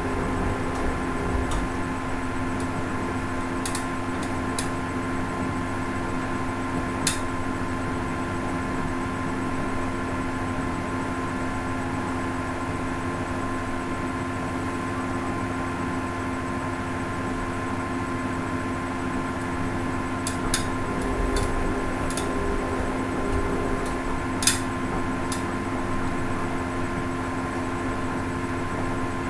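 Hoover Ecologic 800 automatic washing machine running, a steady motor hum with a few sharp clicks or knocks now and then.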